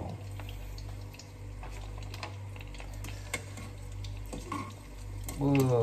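Chicken karaage frying in a pan of hot oil: a steady sizzle with scattered pops and clicks, some from metal tongs handling the pieces.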